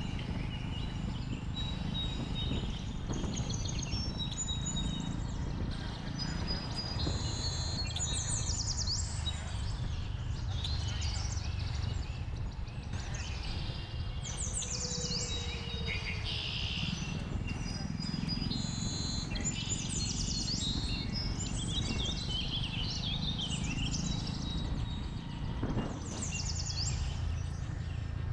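Many birds chirping and trilling in quick succession, over the steady low rumble of a moving Jawa 42 motorcycle and wind on the microphone.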